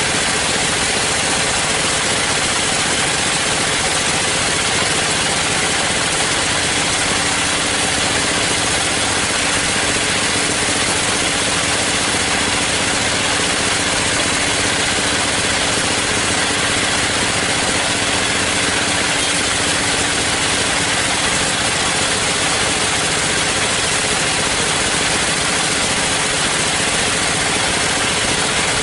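Sawmill machinery running steadily, an unbroken engine drone with a constant high hiss and no change in load.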